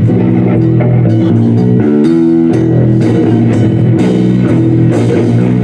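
Live rock band playing with electric guitar, bass and drum kit, a steady beat under sustained chords that change in steps.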